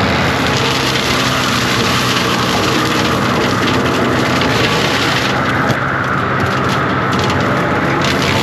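John Deere 333G compact track loader's diesel engine running steadily under load while its hydraulic cutting attachment chews through brush and limbs, with a hiss of cutting that eases off about five seconds in.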